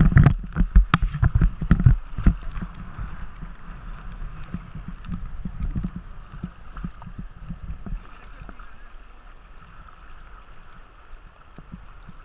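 River current rushing and splashing around a tandem kayak on moving water, with a cluster of irregular low thumps in the first couple of seconds, then a steady, quieter wash of moving water.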